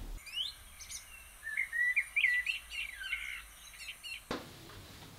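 Birdsong: a quick run of chirps and short rising whistles that starts just after the beginning and cuts off abruptly about four seconds in.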